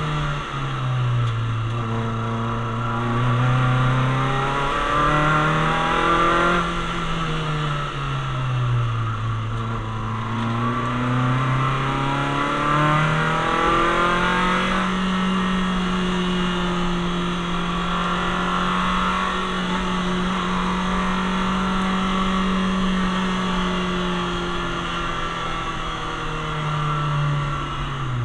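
Citroën Saxo VTS's 1.6-litre 16-valve four-cylinder engine heard from inside the cabin while driven hard on track, its note climbing and falling with the throttle through the first half. It then holds a steady note for about ten seconds before dropping away near the end.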